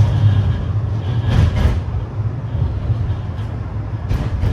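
A tram running, heard from inside: a steady low rumble, with two brief rushing noises, about a second and a half in and near the end.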